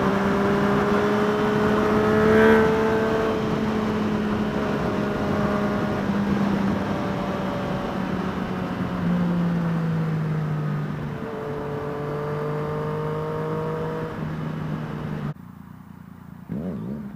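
Yamaha FZ-09 inline three-cylinder motorcycle engine running under way with wind rushing past, its note holding steady and then easing lower about halfway through. The sound drops away abruptly near the end.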